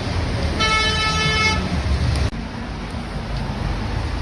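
Street traffic rumbling, with a car horn sounding once as a single steady note for about a second.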